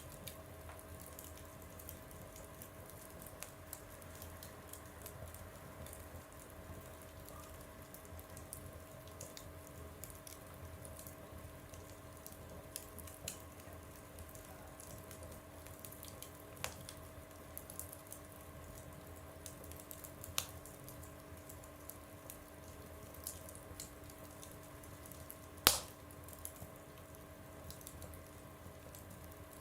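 Wood fire burning in a stove, crackling with scattered small pops and one loud sharp crack near the end, over a faint steady hum.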